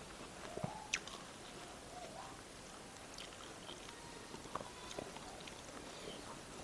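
Faint chewing: a person eating, with a few scattered soft mouth clicks and smacks.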